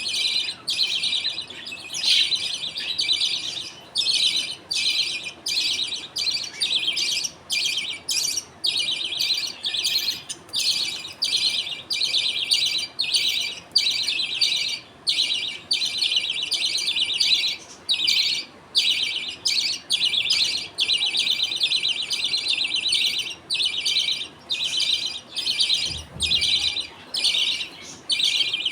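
A colony of budgerigars chattering and warbling, with many overlapping chirps broken only by brief pauses. There is a short low bump near the end.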